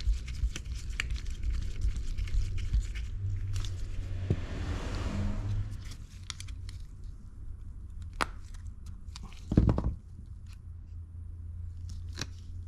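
Small clicks, scrapes and knocks as a window motor's housing is unscrewed with a Torx screwdriver and opened by hand, with a louder knock near ten seconds in.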